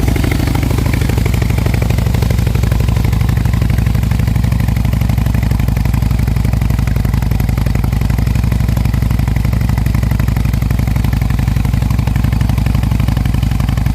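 Harley-Davidson Night Train's air-cooled Twin Cam 96B V-twin idling steadily through a Remus Sebring aftermarket exhaust, just after a cold start.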